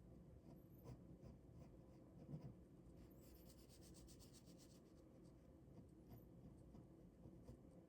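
Ballpoint pen drawing on paper: faint scratching strokes, with a run of quick back-and-forth strokes about three to five seconds in.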